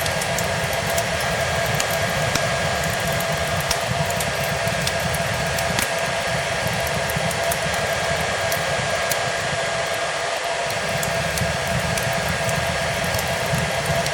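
Hair dryer running steadily: a constant airy rush with a steady whine. Over it, fireplace crackle: scattered sharp pops and snaps of burning wood.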